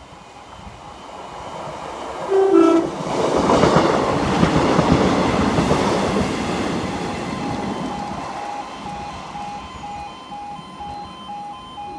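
Transport for Wales diesel multiple-unit train sounding a brief two-note horn, high then low, about two seconds in, then running past close by, loudest for a few seconds before it fades. Behind it the level crossing's alarm pulses between two tones.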